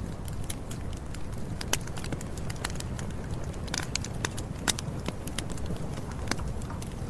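Campfire burning: wood crackling and popping in irregular sharp snaps over a steady low rumble, with a couple of louder pops about two and five seconds in.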